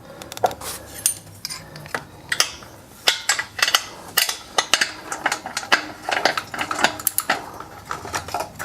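Irregular metallic clinks, knocks and rattles of wheel hardware being handled and fitted onto a small air compressor's frame.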